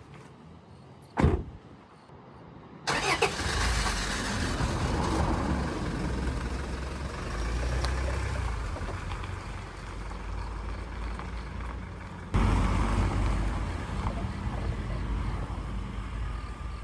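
A motor vehicle's engine and road noise as a steady low rumble, starting abruptly about three seconds in after a single sharp click, and growing louder near the end.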